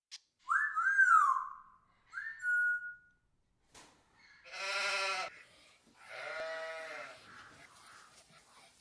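Animal calls: two whistled notes, the first gliding up and down and the second held, then two bleat-like calls, the second longer and quieter.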